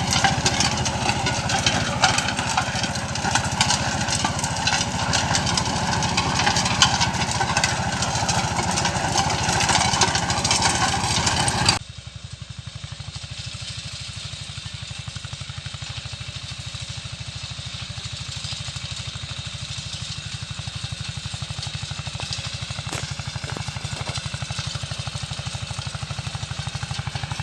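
Eicher 188 mini tractor's diesel engine running with a rotavator, loud and dense with rattle. About twelve seconds in the sound drops abruptly to a quieter, steady, evenly pulsing engine run.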